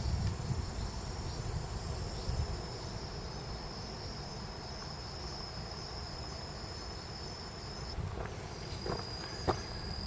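Insects singing in steady, high-pitched continuous trills, several at once, with one song giving way to a slightly lower one near the end. A low rumble runs underneath, and there are a few light knocks in the last two seconds.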